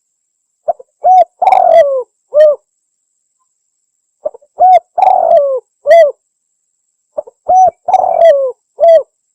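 Spotted dove (tekukur) cooing: its phrase of short coos and a longer coo with a falling tail, given three times about three and a half seconds apart.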